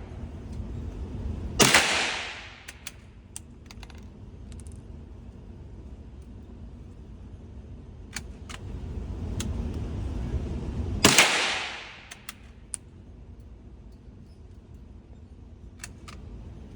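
Two shots from a single-shot bolt-action .22 LR rifle, about nine and a half seconds apart, each with a short echoing tail. Light clicks fall between the shots, as the bolt is worked and the next round loaded.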